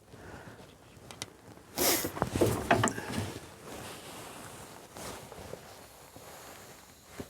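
Hand tools working nuts down on a vintage car engine: a burst of metallic ratcheting clicks and clinks for about a second and a half, starting about two seconds in, with quieter handling noises around it.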